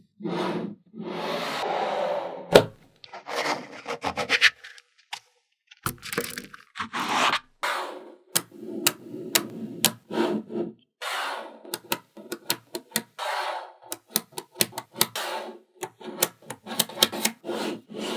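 Small magnetic balls being handled: stretches of scraping and rolling as they are pushed across a surface, broken by many sharp clicks as they snap together.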